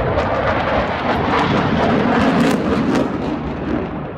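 Airplane flying past at an airshow: a loud, steady rush of engine noise that eases slightly after about three seconds.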